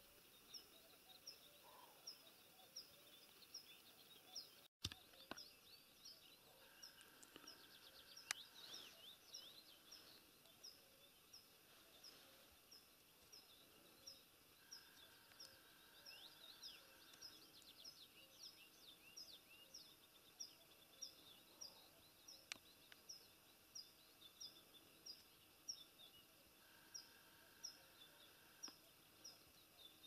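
Faint birdsong: one bird repeats a short high chirp about one and a half times a second, while other birds sing quick high phrases in between. A click and a brief dropout about five seconds in.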